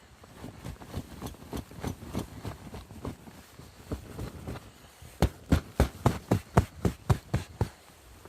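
Footsteps in snow, faint and uneven at first, then louder, evenly spaced steps at about three a second in the second half.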